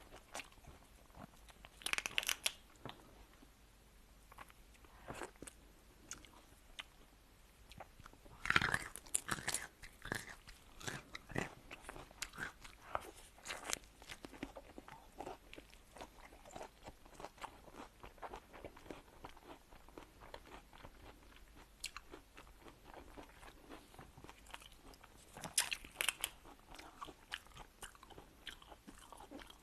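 Close-miked eating of seafood: steady chewing and mouth clicks with crunching bites. The loudest crunches come about two seconds in, around eight to ten seconds in, and near the end.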